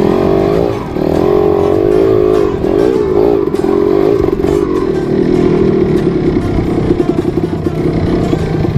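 Trail motorcycle engine running under constant throttle changes, its pitch rising and falling for the first few seconds, then settling into a lower, rapid chugging in the second half.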